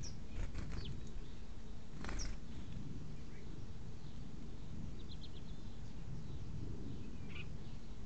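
Small garden birds giving short, high chirps several times, over a steady low background rumble.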